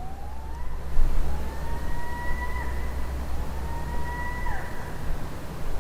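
Long, wailing calls from an unidentified night animal, three in a row. Each glides up, holds a steady pitch and breaks downward at the end, over a steady low hum.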